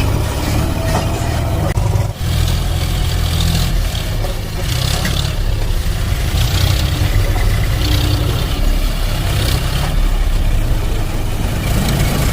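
Tractor engine sound, a steady low diesel-style rumble, dipping briefly about two seconds in.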